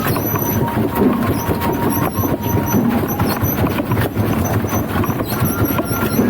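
Wooden danjiri festival float rolling along the street: a steady rumble and clatter from its wheels, with thin, drawn-out squeals.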